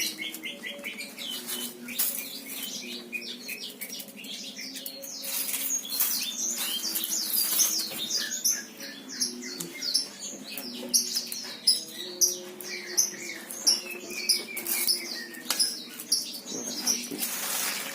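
Small birds chirping: many short, high calls repeated quickly and overlapping, growing busier about halfway through.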